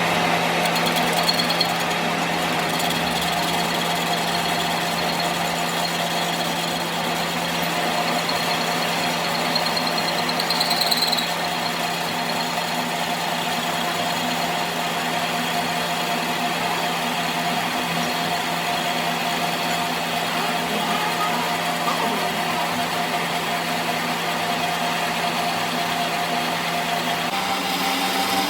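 A motor-driven workshop machine running steadily: a constant hum with a rough, noisy layer over it. Its note shifts slightly near the end.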